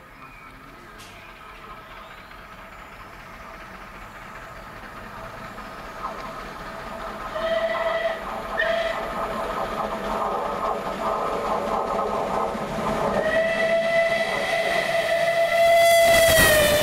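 Train approaching and passing at speed, its running noise building. The locomotive sounds two short warning blasts and then a long one, whose pitch drops as it goes by.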